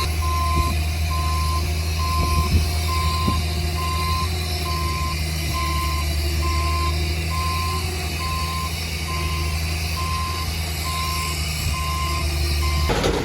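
Reversing alarm of a heavy construction machine beeping at an even pace, over the steady low drone of its diesel engine running; both stop abruptly near the end.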